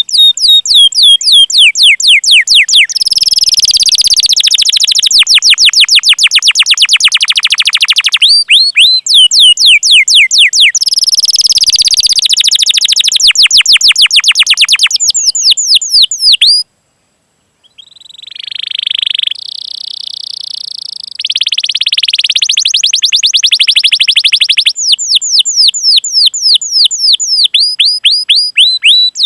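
Domestic canary singing: runs of rapid, sharply falling whistled 'cuit cuit' notes alternating with long, fast rolling trills. The song breaks off for a moment about two-thirds through, then resumes with a softer rolled phrase before the chirps return.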